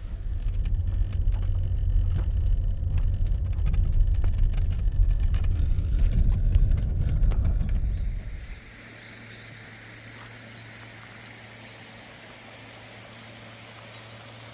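Strong gusty wind buffeting the microphone: a loud, rough low rumble with scattered clicks. About eight and a half seconds in it cuts off suddenly, leaving a much quieter steady background with a faint hiss and a low hum.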